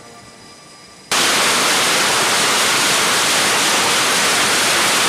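A faint tail of music, then about a second in a loud, steady hiss of static noise starts abruptly, like an untuned TV.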